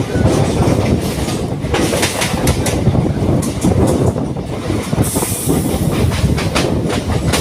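Suburban local train running, heard from on board: a steady loud rumble with repeated sharp clacks of the wheels over rail joints, and a short hiss about five seconds in.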